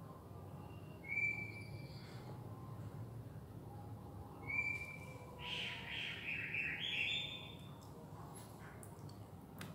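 A bird chirping faintly: two short whistled notes, then a longer warbling call about halfway through, over a low steady room hum.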